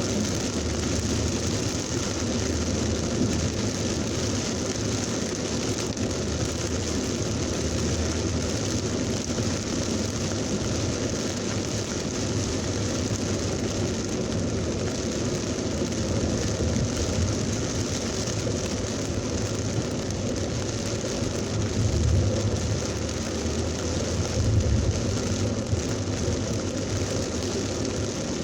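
Heavy thunderstorm rain pouring down in a steady hiss. Two brief low rumbles come near the end.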